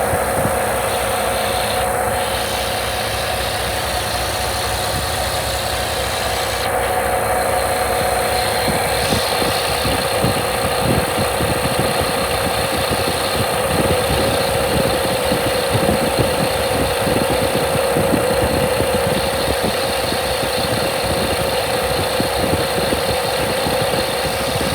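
2016 International N13 inline-six diesel engine idling steadily.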